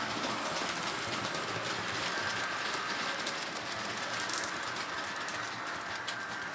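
Model diesel train running on the layout track: a steady rolling noise with many fine clicks from the wheels on the rails.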